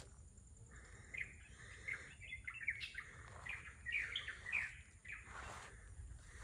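Small birds chirping: a rapid run of short high notes that starts about a second in and fades out shortly before the end.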